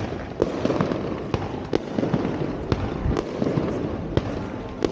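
Consumer fireworks going off: an irregular string of sharp bangs and pops, several a second, over a steady crackling haze.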